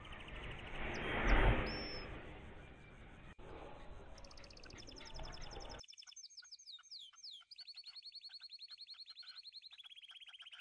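Small songbird chirping and trilling in fast, repeated high-pitched notes. Faint handling noise runs underneath at first, with a louder rustle at about a second and a half, then cuts out suddenly about six seconds in, leaving the bird alone.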